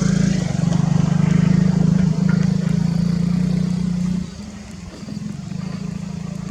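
A small engine running steadily with a low hum. It is loud at first, then drops sharply to a quieter level about four seconds in.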